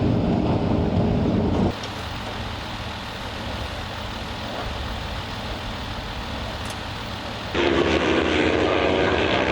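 Superbike racing motorcycle engines. They run loud for the first second and a half, drop abruptly to a quieter steady hum, and come back loud with a clear engine note about two seconds before the end.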